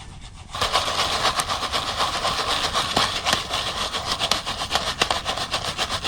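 Campfire burning: a steady hiss with many sharp crackles and pops, starting suddenly about half a second in.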